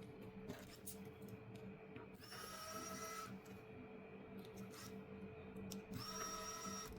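A small motor whirring in two short bursts of about a second each, over a steady low hum and scattered light clicks.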